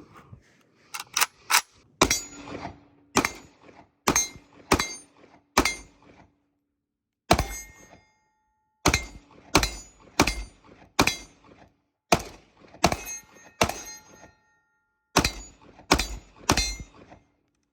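AK-pattern rifle in 7.62x39 fired semi-automatically, about twenty shots at an uneven pace, some in quick pairs and runs, with a faint ringing tone after several of them.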